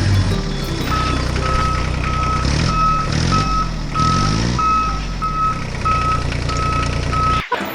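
A vehicle reversing alarm beeping about twice a second over a running engine. The sound cuts off suddenly near the end.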